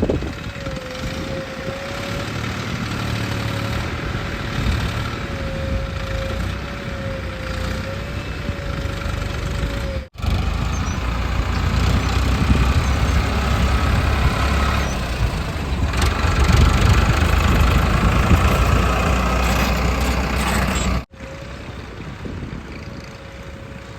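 Diesel engines of heavy earthmoving machinery running. A wavering whine sits over the engine noise in the first part. After a sudden cut about ten seconds in, the running is louder and heavier, and another abrupt cut comes near the end.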